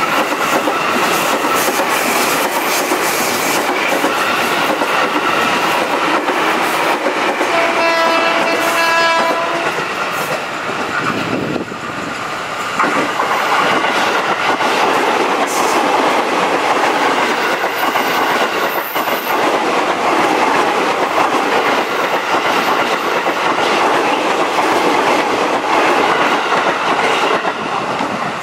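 Electric commuter trains (KRL Commuterline EMUs) running past close by: a steady rush of wheels and running gear on the rails. A train horn sounds one pitched note for about a second and a half, some eight seconds in.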